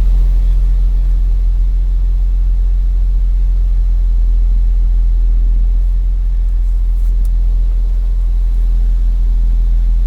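Car engine idling steadily with a low, even hum, the air conditioning switched off and the engine not yet warmed up.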